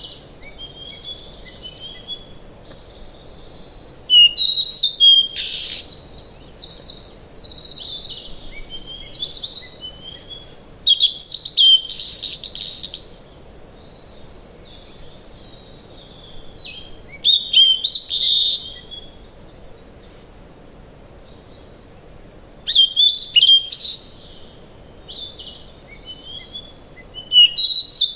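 Songbirds singing and chirping in repeated bouts of high, quick phrases, over a faint steady background hiss.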